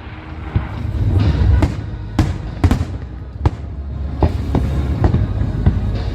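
Aerial fireworks shells bursting: about a dozen sharp bangs at uneven intervals over a steady low rumble.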